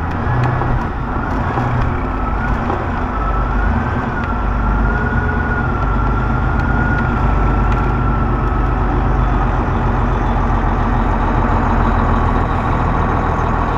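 Semi-truck diesel engine running steadily at low speed. A thin, high, wavering tone rises and falls over it for several seconds in the first half.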